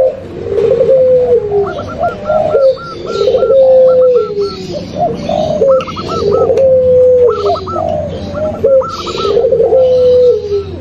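Several doves cooing over one another: low repeated coos with drawn-out falling notes, overlapped by higher, quicker rippling phrases. This is a layered lure-call mix of zebra dove (perkutut), spotted dove (derkuku) and puter pelung dove.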